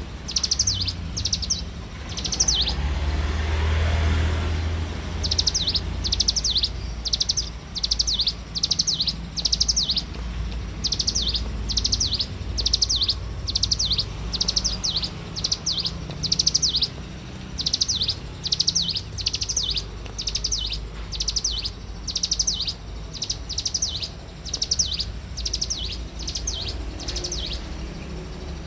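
Ciblek gunung, a prinia, singing persistently: quick bursts of short, high, sharp notes repeated over and over with brief gaps. About three seconds in the song pauses while a low rushing swell rises and fades.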